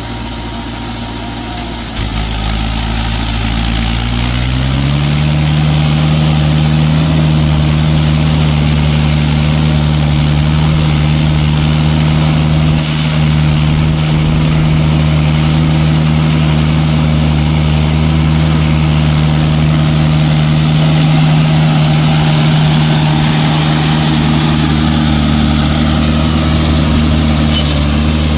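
Mahindra tractor's diesel engine revving up: about two seconds in, its note climbs for a few seconds, then holds steady at high revs.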